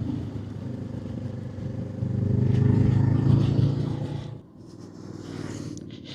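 Motorcycle engine running on the move, growing louder about two seconds in and then falling away sharply a little after four seconds.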